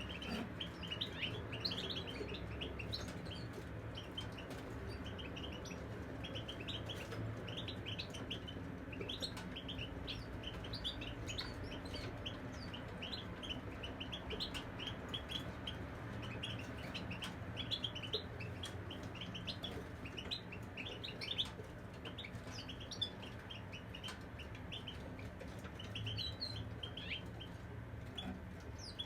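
Caged European goldfinch singing: a continuous stream of quick, high twittering chirps.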